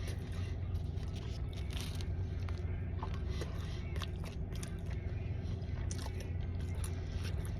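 Close-up mouth sounds of someone biting and chewing a corned beef and Muenster cheese hero sandwich, with many small wet clicks and crunches. A steady low hum runs underneath.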